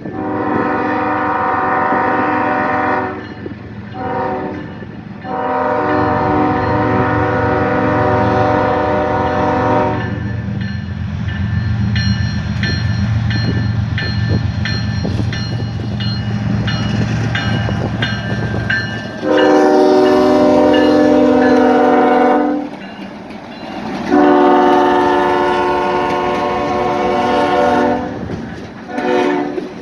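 Diesel locomotive's multi-chime air horn sounding a series of long blasts with short ones between, each a steady chord. Between the blasts the train rumbles low, with a repeated high ringing in the middle stretch.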